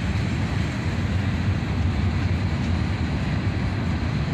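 Freight cars of a long mixed manifest train rolling past, a steady rumble of wheels on the rails.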